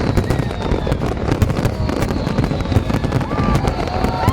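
Fireworks display: a dense, continuous barrage of rapid crackling and popping over a low rumble of bursts.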